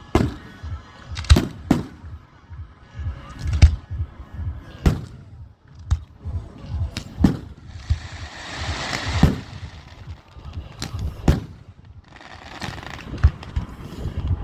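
Fireworks display firing: a string of sharp bangs at irregular intervals, with a dense hissing, crackling burst about eight seconds in.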